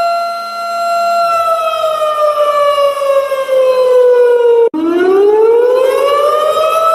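Civil-defense warning siren wailing: it holds a steady pitch, then slides down over a few seconds, cuts out for an instant about two-thirds in, and rises back up to its starting pitch.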